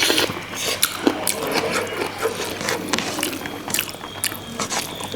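Eating sounds close to the microphone: chewing and lip smacks, heard as a quick, irregular run of small clicks.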